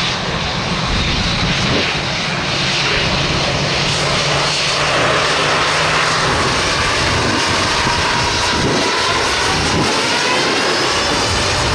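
Jet airliner's engines passing close by: a loud, steady rush with a whine that falls in pitch from about six seconds in as the aircraft goes past.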